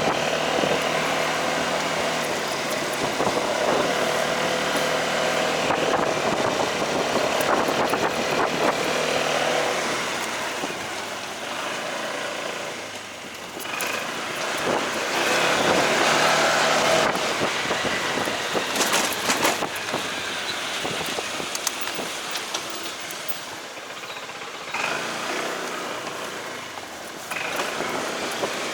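Motorcycle riding through traffic: engine running with road and wind noise, rising and falling in level.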